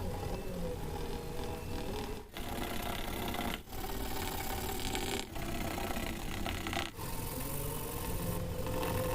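Paper being rubbed and scraped, a continuous scratchy handling noise broken by a few brief gaps.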